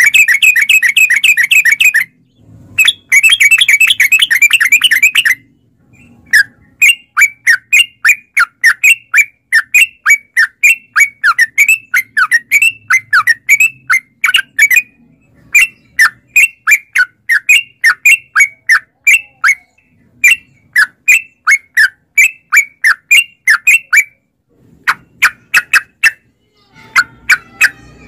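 Yellow-vented bulbul (trucukan) song: two dense bursts of rapid chatter, then a long, even run of short repeated notes at about two to three a second, with a couple of short pauses near the end.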